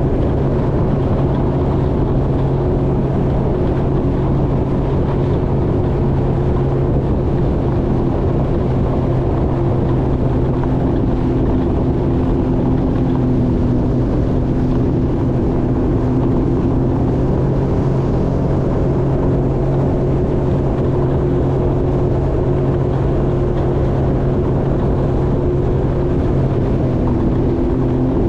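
Jet ski engine running at a steady cruising speed: a loud, even drone that holds the same pitch throughout.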